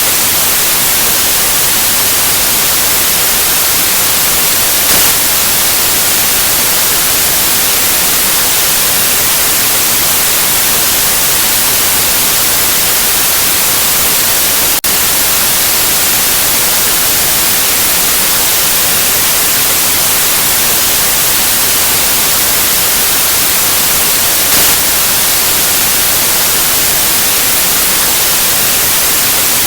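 Steady white noise: an even, loud hiss, brightest in the high end, with a tiny click about halfway through.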